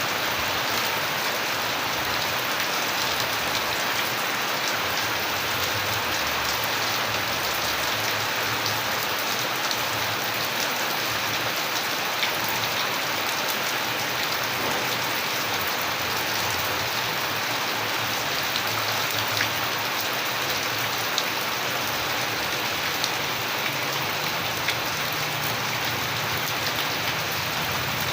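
Steady rain falling, with individual drops ticking on a surface over a continuous hiss of rainfall.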